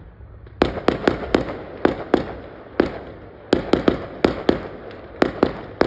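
Fireworks going off: a rapid, irregular run of about fifteen sharp bangs starting about half a second in, several coming in quick pairs and triplets over a low rumble.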